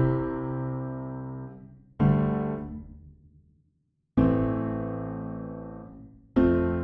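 Keyboard chords played through the Beatskillz Echorium tape delay plugin: four chords struck about two seconds apart, each ringing and fading, with a brief silence after the second.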